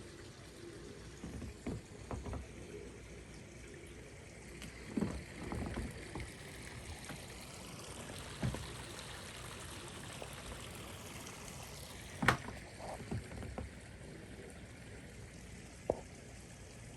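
Steady trickle of running water from a fish pond, with scattered short knocks and thumps; the loudest knock comes about twelve seconds in.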